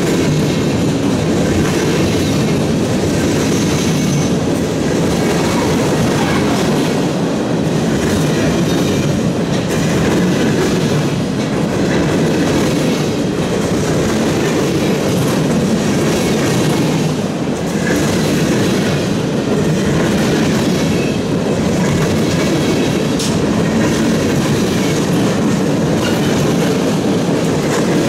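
Freight train cars rolling past close by, their steel wheels running on the rails in a steady, unbroken noise.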